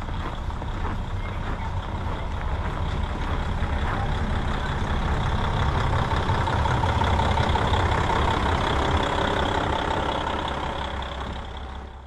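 Diesel railcar engine running with a steady low rumble and a held whine, slowly growing louder, then fading out near the end.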